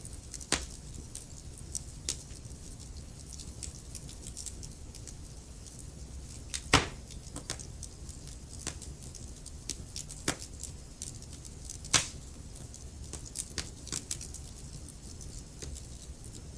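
Wood logs burning in a fireplace, crackling: irregular sharp pops and snaps over a low steady rumble of the flames, with two louder pops, one about midway and one about three-quarters of the way through.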